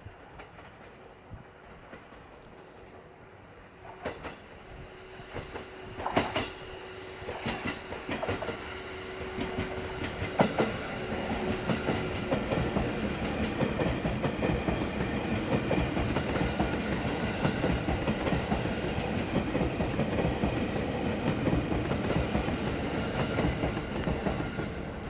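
651 series electric limited express train passing through a station without stopping. It is faint at first; from about four seconds in its wheels click over the rail joints as it nears, building to a steady, loud rush of wheels on rail as the cars run past close by.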